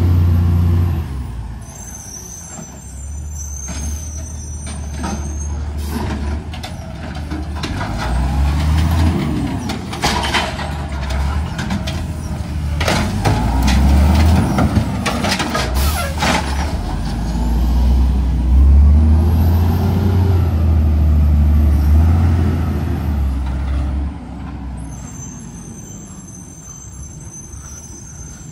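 Garbage truck's diesel engine revving up and down several times, with a run of sharp knocks and bangs in the middle of the stretch.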